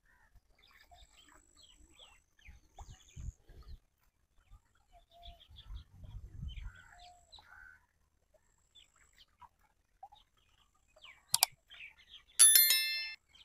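Birds chirping faintly and sporadically, with some brief low rumbling. Near the end comes a sharp click, then a loud, high-pitched call lasting under a second.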